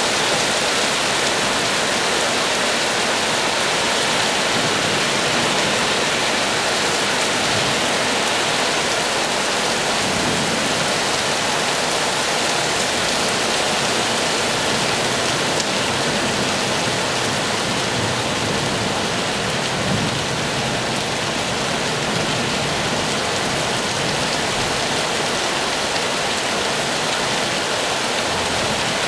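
Heavy thunderstorm rain pouring down in a steady hiss, with a couple of faint low rumbles of distant thunder about ten and twenty seconds in.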